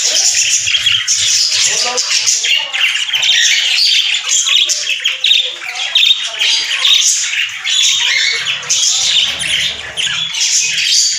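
Many small pet parrots chattering and squawking at once: a dense, unbroken mass of short, high, overlapping calls.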